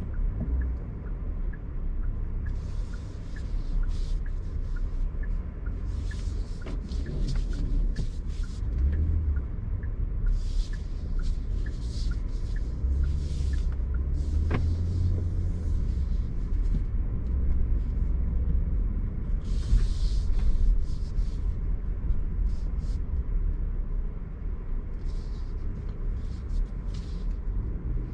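Cabin noise of a Genesis G80 3.5 turbo pulling away and driving: a steady low road-and-engine rumble heard from the back seat. Short hissy surges come and go over it, and there is faint even ticking during the first half.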